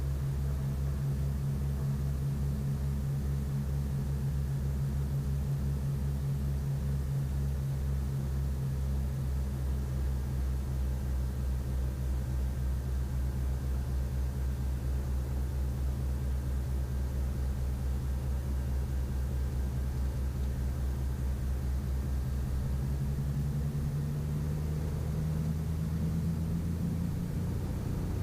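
Twin piston engines of a Piper Navajo Panther conversion at takeoff power, heard from inside the cabin: a steady low drone with a regular throbbing beat between the two engines. About three-quarters of the way through, the drone shifts up in pitch.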